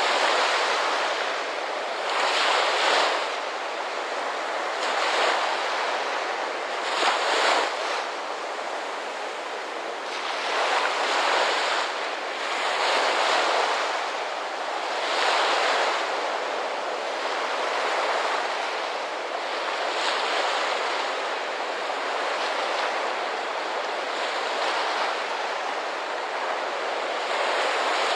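Ocean surf: small waves breaking and washing in, swelling and falling back every two to three seconds.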